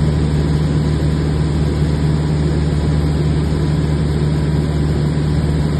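Single-engine light aircraft's piston engine and propeller droning steadily, with no change in pitch or level.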